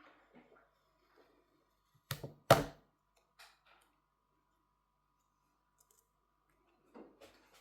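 Sharp clicks of small tools and phone parts being handled during a smartphone teardown: two loud clicks close together about two seconds in, then a few fainter ones near the end.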